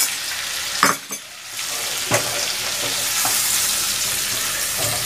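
Potatoes and spiced yogurt sizzling in hot oil in a kadai while being stirred, with a few light knocks of the spatula against the pan. This is the yogurt being cooked down (kasha) with the potatoes.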